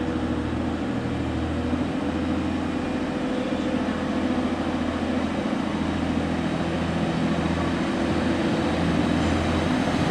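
Class 185 diesel multiple unit's engines running with a steady low hum, slowly getting louder.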